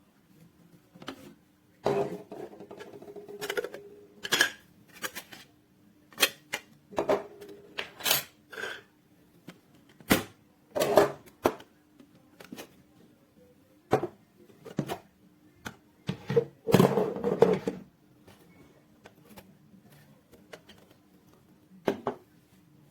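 Hard objects being handled and set down: a series of irregular knocks, clicks and clatters, with a denser rattle about two seconds in and another near seventeen seconds. A faint steady hum runs underneath.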